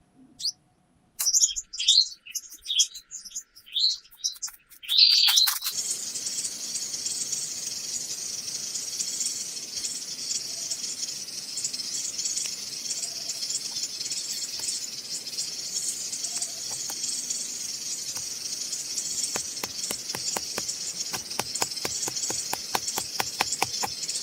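Birds chirping in short separate calls. About five seconds in, a steady high-pitched hiss starts and runs on. A run of rapid, even ticks joins it in the last few seconds.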